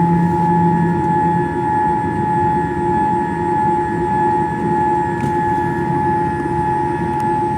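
Boeing 787-8 Dreamliner cabin noise: a steady low rumble with several unchanging whining tones over it, and a lower hum that fades out about a second in.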